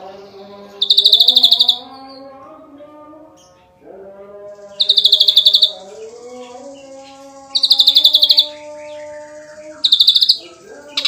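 Ashy drongo singing: four loud, rapid, pulsed high bursts, each under a second and a few seconds apart, over a quieter, drawn-out lower tone that steps in pitch.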